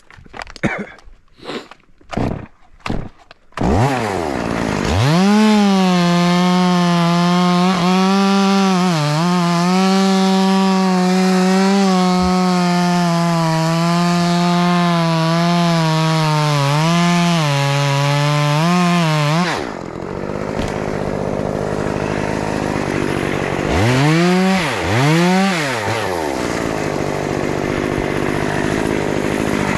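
Stihl two-stroke chainsaw: a few short pulls of the starter cord, then the engine catches and runs at full throttle with brief dips in revs. About twenty seconds in it drops to idle, is revved twice and idles again.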